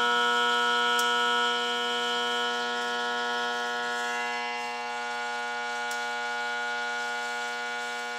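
Microwave oven transformer, rewound for about 900 amps, buzzing steadily under heavy load while it drives current through a 10-penny nail that is burning and smoking. The buzz eases off slightly after a second or two.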